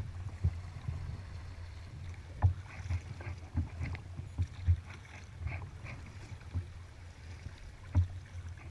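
Kayak being paddled on open water: paddle blades dipping and splashing, with irregular low thumps.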